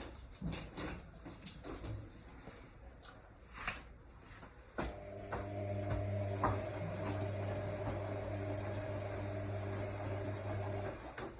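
AEG Lavamat L62850L washing machine: a few seconds of scattered clicks and knocks, then a steady electric motor hum that starts about five seconds in, runs for about six seconds and cuts off suddenly near the end.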